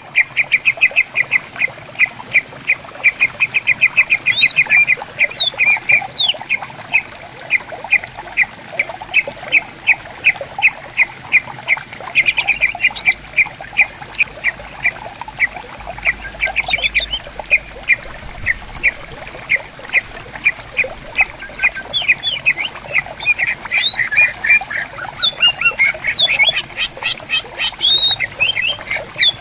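Green leafbirds (cucak ijo) calling back and forth in a rapid run of short notes, about five a second, broken by higher sliding whistles, over gently running water.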